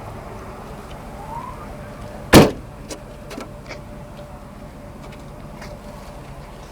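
A single loud slam about two seconds in, the Yukon's rear liftgate being shut, followed by a few light clicks and knocks, over a steady low hum.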